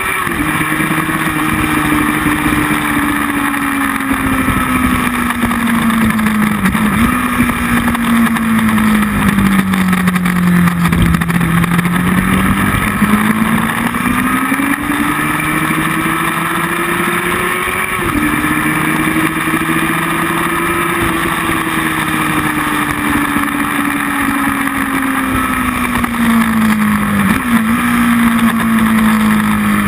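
Motorcycle engine heard onboard at speed, its pitch climbing and falling as the bike speeds up and slows, with a few sudden steps in pitch as gears change. Steady wind rush over the microphone runs underneath.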